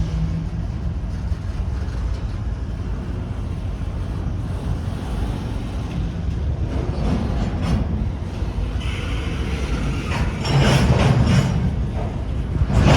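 Train rolling past: a steady low rumble, with a clatter of wheels over the rails that comes in about halfway through and grows louder in the last few seconds.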